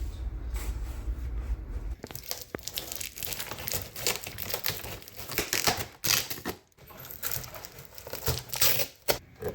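Irregular crinkling and rustling noise, with a steady low hum in the first two seconds that cuts off abruptly.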